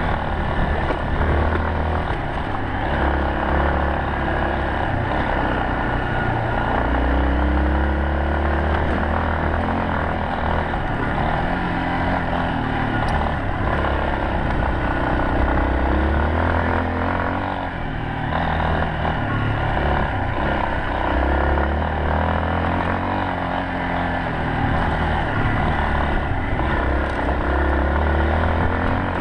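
Yamaha Serow 250's single-cylinder four-stroke engine running under way, its revs rising and falling again and again through gear and throttle changes, over a strong low rumble.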